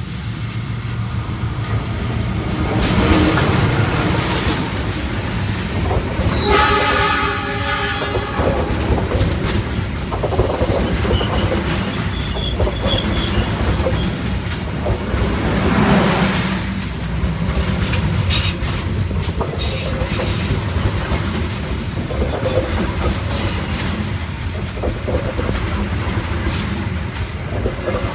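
Train passing close over a railway viaduct, its wheels clattering steadily over the rail joints. The locomotive's horn sounds once about six seconds in and holds for about two seconds.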